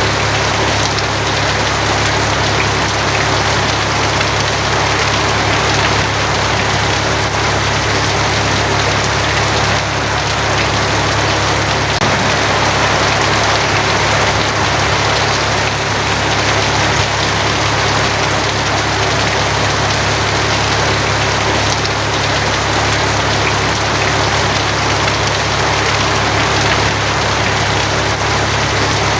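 Steady heavy rain drumming on a tin roof, with a constant low rumble underneath.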